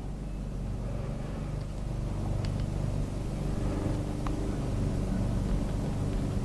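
A few faint clicks of set screws being snugged up with a hex key on the Sanding Wonder's bar collar, over a steady low background hum.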